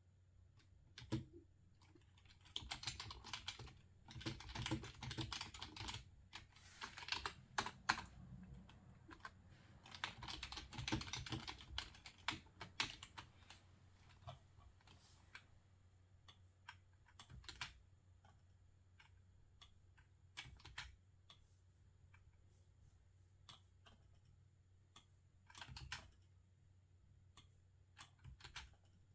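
Quiet typing on a computer keyboard: quick runs of key clicks for the first half, then scattered single clicks with pauses between them.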